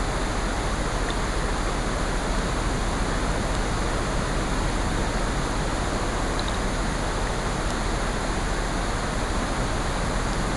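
Layered rain and ocean surf making a steady, even hiss, with a few faint crackles from a fireplace.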